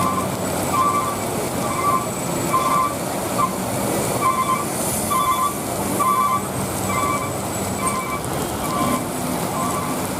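A truck's reversing alarm beeping about twice a second, over a truck engine running and traffic noise.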